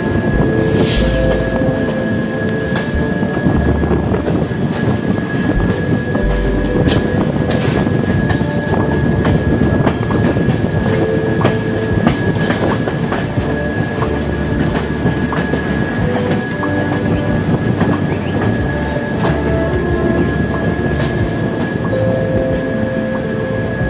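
Express passenger train running on the rails, heard from the side of the moving coach: a steady rumble of wheels with clicks over rail joints and a thin, steady squeal from the wheels as the train takes the curves. Gusts of wind buffet the microphone now and then.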